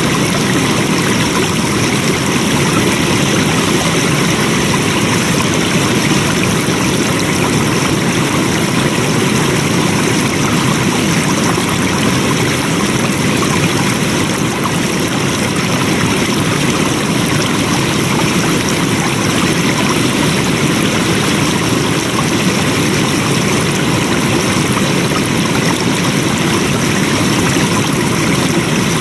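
Flowing water: a stream running steadily with a constant rushing sound.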